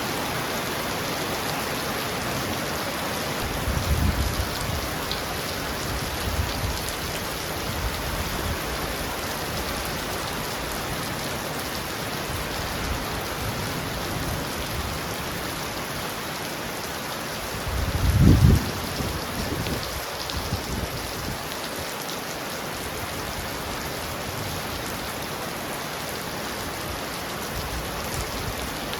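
Heavy rain falling steadily on a roof. There is a brief low rumble about four seconds in, and a louder one at about eighteen seconds.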